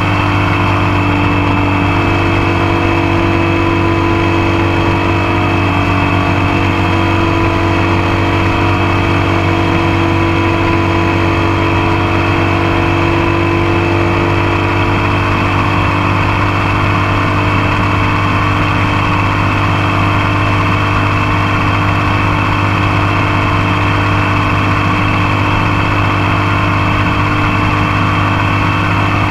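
Motorcycle engine running steadily at an even speed, close and loud, with a constant rush of road and wind noise.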